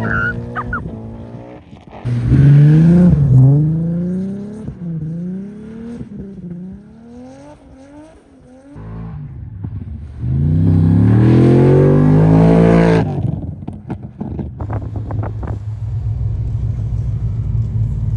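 High-powered tuned car engine revving hard in repeated bursts: one long rev, several quick blips, then another long high rev, after which it drops to a steady lower note with a few sharp crackles.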